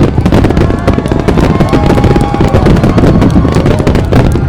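Fireworks display going off in rapid, dense bangs and crackling, many reports overlapping with no break, under a few held tones.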